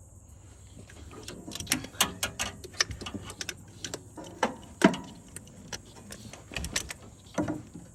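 Irregular sharp clicks and knocks of tools and parts being handled in an engine bay, a few a second, the loudest just before the fifth second.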